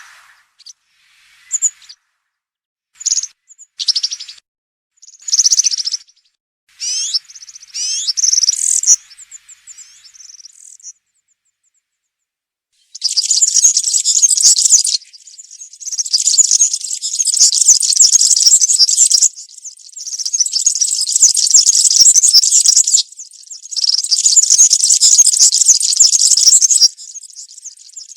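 European serin singing: short calls and brief phrases in the first ten seconds or so, then after a pause a run of long high-pitched song phrases, each two to four seconds, with short gaps between them.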